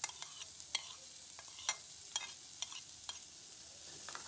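Chopped onion and red pepper sizzling in hot chicken fat in a non-stick frying pan, while a metal spoon scrapes them off a plate and stirs them. There is a steady hiss, with about seven sharp clinks of the spoon against the plate and pan.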